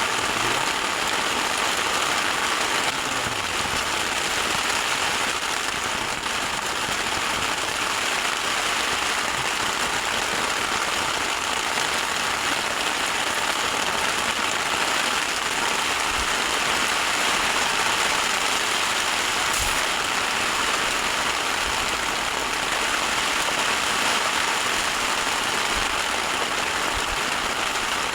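Heavy rain falling steadily, with one faint click about two-thirds of the way through.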